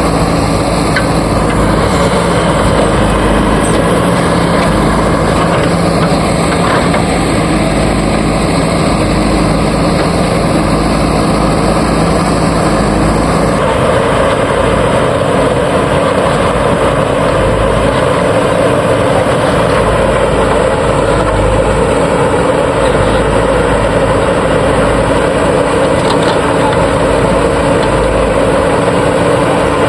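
Diesel engines of a JCB 3DX backhoe loader and tractors running steadily while loading mud. The engine note changes about halfway through.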